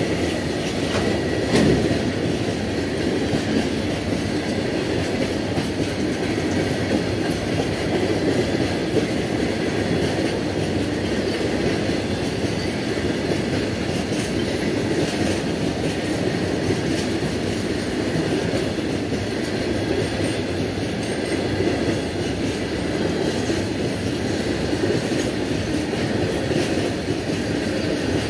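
Long freight train of covered box wagons rolling past at a steady speed: a continuous rumble of wheels on rail with a light clatter over the joints, and one louder knock about a second and a half in.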